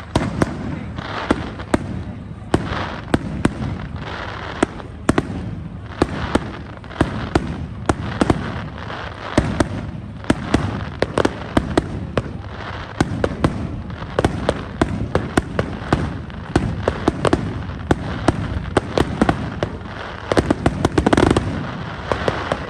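Fireworks display: a continuous barrage of sharp bangs and crackling shell bursts, many per second, with dense clusters of rapid bangs near the end.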